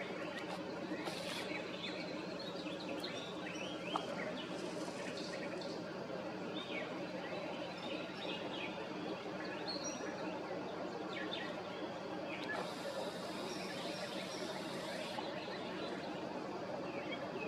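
Outdoor ambience with small birds chirping on and off over a steady low hum. Three stretches of high hissing noise cut in, the longest lasting about two and a half seconds past the middle.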